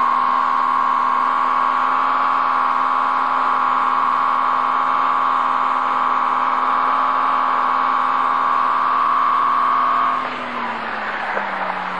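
Ford Granada's engine held at high revs while the car spins its wheels on gravel, a loud, steady high-pitched drone. About ten seconds in the revs drop and the sound falls away.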